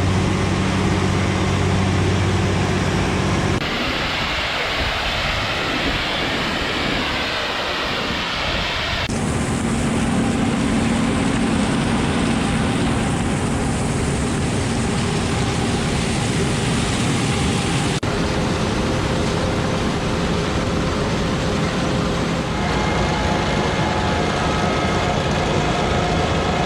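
Heavy farm machinery engine running steadily with a loud mechanical hum, changing character abruptly several times.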